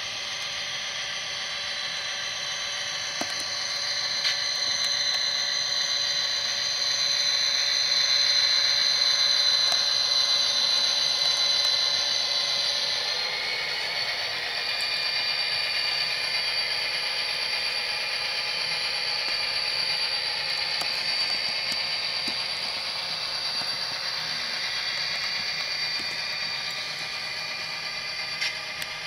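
Simulated EMD 645 diesel engine sound from a Tsunami sound decoder, played through a model locomotive's small speaker, mixed with the whir of the model's drive. The engine sound builds, then changes and drops off about halfway through, as with a throttle change.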